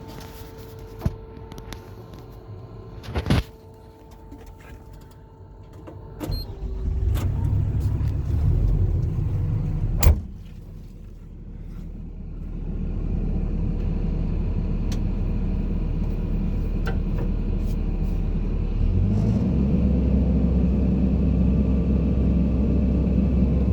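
JCB JS160 tracked excavator's diesel engine running. It starts quiet under a steady whine with a few sharp knocks, then comes up into a heavy low rumble about six seconds in, drops back after a loud knock about ten seconds in, and builds again to a steady working note that rises once more near the end.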